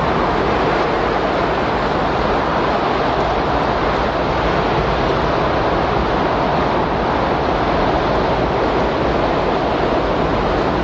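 Steady windstorm ambience: an unbroken rush of wind noise that holds an even level throughout.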